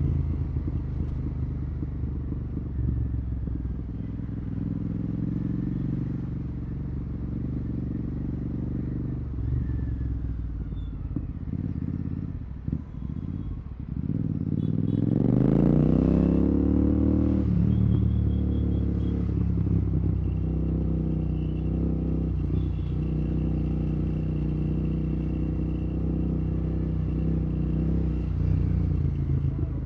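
Royal Enfield Continental GT 650's parallel-twin engine through Red Rooster exhausts with the dB killers removed, running loud while riding in traffic. The note dips briefly a little before halfway, then revs up sharply under acceleration about halfway through and settles back to a steady cruise.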